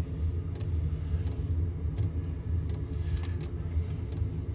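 Steady low mechanical hum, engine-like, in the truck's cab, with a few faint light clicks and taps.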